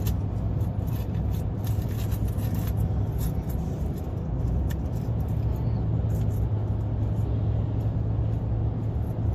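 Steady road and engine noise inside a moving car's cabin: an even low drone with tyre rumble underneath.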